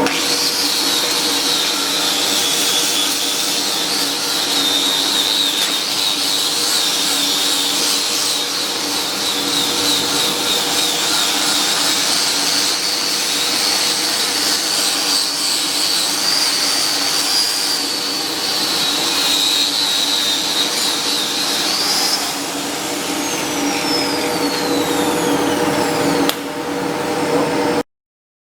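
Flux-cored arc welding on carbon steel: a steady arc hiss and crackle over a low machine hum, cutting off suddenly near the end.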